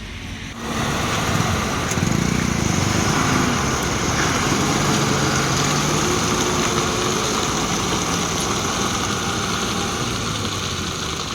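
A vehicle engine running steadily, growing louder about half a second in and then holding at an even level.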